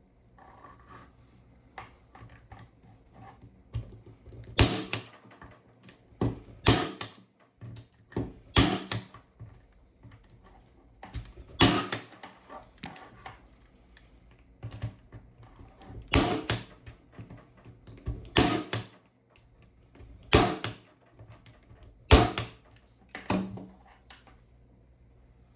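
110 punchdown tool snapping as it seats and trims the conductors of a Cat6 keystone jack: about eight sharp clacks roughly two seconds apart, with one longer pause midway and lighter handling clicks between.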